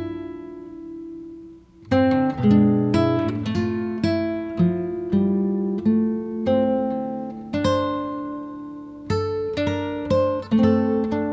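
Acoustic guitar music: a chord rings and fades over the first two seconds, then a run of picked notes and chords follows, each note starting sharply and dying away.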